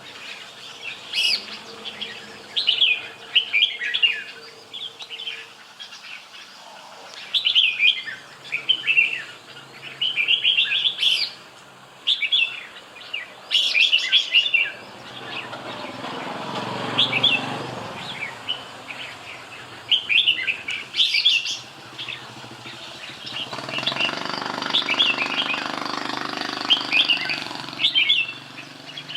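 Red-whiskered bulbul singing: short, bright, chirpy phrases repeated every second or two. A rushing noise swells up twice, about halfway through and again near the end.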